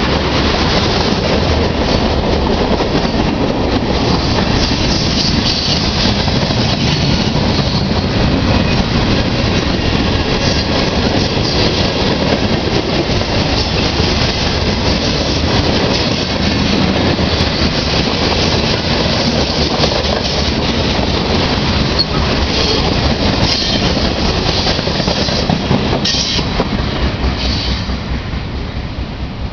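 Norfolk Southern freight train's cars rolling past close by: steel wheels clattering on the rails, with brief high wheel squeals now and then. The sound drops off near the end as the last car goes by.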